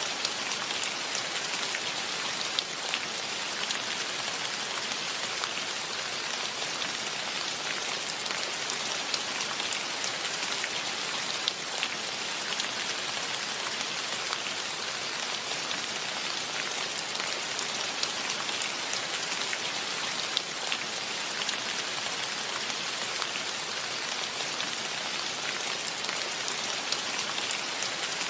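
Steady rain falling, an even hiss with individual close drops ticking here and there.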